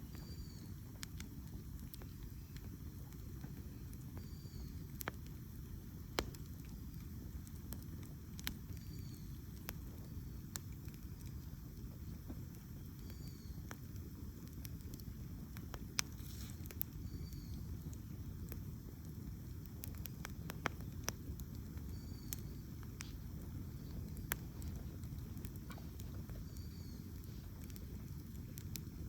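Wood campfire burning and crackling, with scattered sharp pops over a steady low rumble. Faint high chirps recur every second or two.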